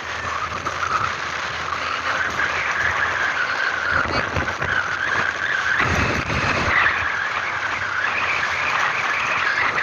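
Vehicle driving along a rough road, a steady rushing noise with two heavy low thumps about four and six seconds in.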